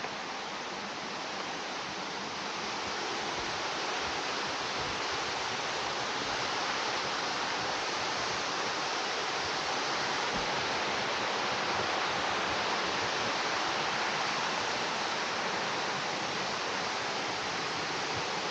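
Waterfall cascading into a pool: a steady rush of falling water. It grows a little louder a few seconds in.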